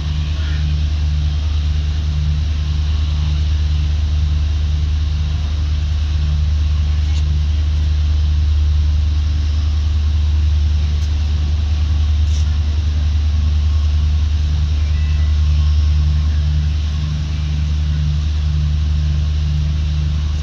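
Diesel-hauled passenger train rolling slowly out of a station, heard from an open coach door: a steady, heavy low drone with a throb that pulses about twice a second.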